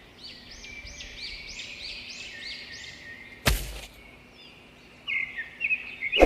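Bird song: a quick series of repeated arching chirps, about three a second, then a few more chirps near the end. A single sharp knock about three and a half seconds in.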